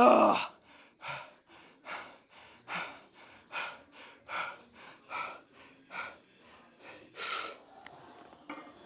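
A man breathing hard and rhythmically under exertion during a heavy set of leg exercise. A loud strained grunt opens it, then sharp breaths follow a little more than once a second.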